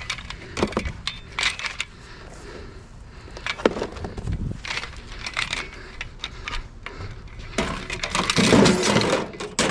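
Irregular knocks, clicks and rattles of hard objects being handled and moved, with a louder stretch of clattering and scraping near the end.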